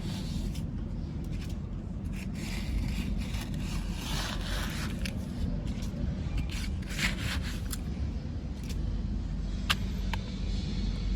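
Radio-controlled construction toy's electric motors running with a steady low hum, with irregular scraping of soil against plastic and a couple of sharp clicks near the end.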